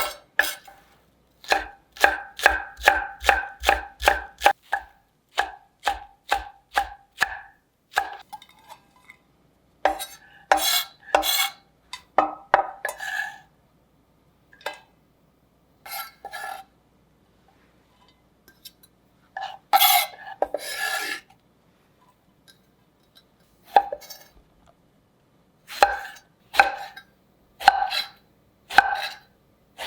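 Kitchen knife chopping on a cutting board in runs of quick strokes, about three a second, with pauses between runs. About twenty seconds in there is a longer scraping sound.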